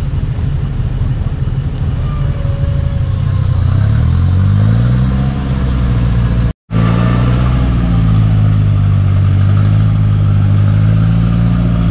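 Off-road 4x4 engines working hard in deep mud: a Jeep Cherokee's engine revs up about four seconds in and holds high. After a brief dropout just past halfway, another 4x4's engine runs at steady high revs as it climbs a muddy rutted track.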